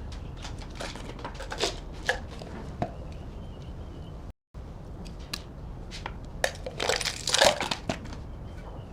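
Irregular small clicks, knocks and crinkling rustle, as of parts and materials being handled at a workbench, over a low steady hum. The sound cuts out for a moment near the middle, and the knocks and rustling bunch up louder near the end.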